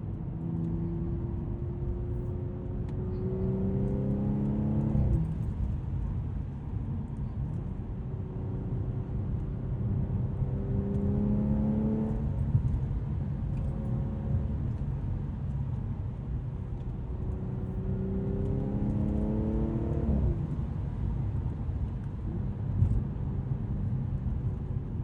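Audi S5's 3.0 supercharged V6 pulling under acceleration over steady road rumble: three times the engine note climbs for a few seconds and then drops abruptly.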